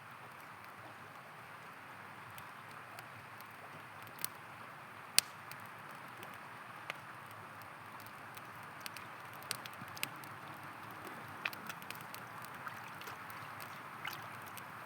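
River water flowing steadily, with a campfire crackling over it in scattered sharp pops, the loudest about five seconds in.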